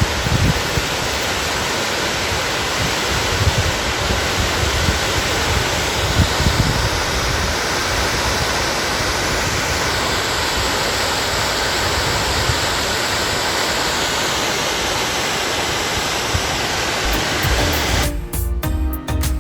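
Waterfall with a strong flow, a steady rush of falling water. Music starts near the end.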